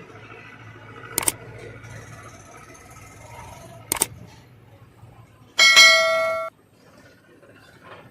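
Heavy machinery running low in the background, with two sharp metallic clanks about a second and four seconds in. A loud ringing, bell-like tone about six seconds in lasts about a second and then cuts off suddenly.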